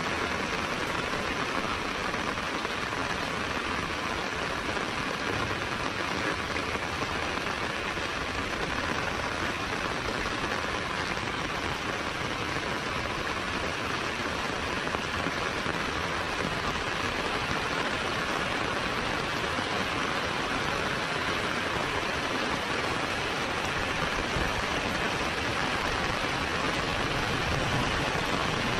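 Heavy rain falling steadily on a paved road and the plants beside it: a continuous, even hiss.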